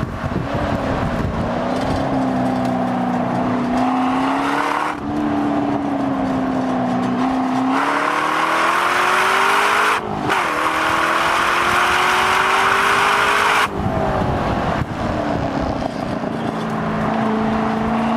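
Corvette C6 V8 engine under hard acceleration on track, its note climbing steadily in pitch, breaking briefly for an upshift about ten seconds in, climbing again, then dropping suddenly near fourteen seconds and settling to a steadier note. Wind and road noise run underneath.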